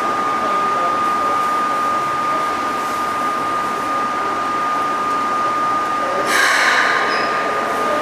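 Keikyu 600-series electric train standing at the platform: a steady high-pitched electrical whine, with a short burst of hissing air about six seconds in.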